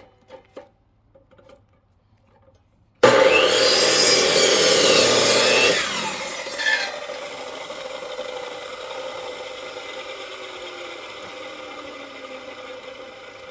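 Chainsaw cutting through a firewood log. After a few faint clicks it comes in suddenly about three seconds in and is loudest for about three seconds, then runs lighter with a steady hum that slowly fades.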